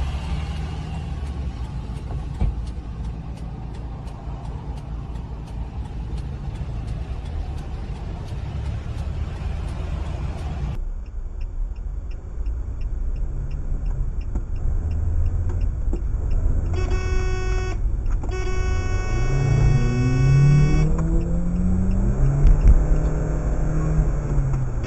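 Car road and engine noise from dashcam footage, with a regular light ticking. After a cut, a car horn sounds twice, short and then long, along with an engine note rising and falling.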